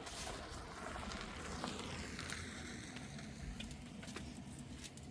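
A vehicle passing at a distance, its noise sweeping down in pitch as it goes by, with a few light knocks.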